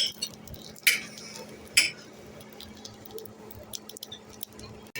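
Hammer blows on metal in a forge shop: three sharp metallic clanks about a second apart, then quieter, over a steady low hum.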